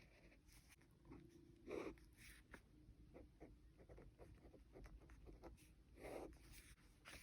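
Pen writing on bullet-journal paper: faint scratching with quick small ticks, and two slightly louder brief scrapes, about two and six seconds in.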